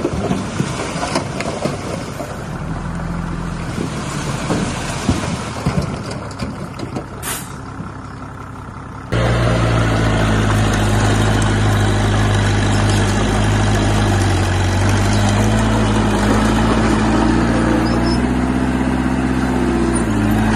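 Heavy diesel construction machinery running. For about nine seconds the engine is mixed with clanking and knocking, with a short hiss of air about seven seconds in. Then there is an abrupt cut to a louder, steady engine drone whose pitch rises a little near the end.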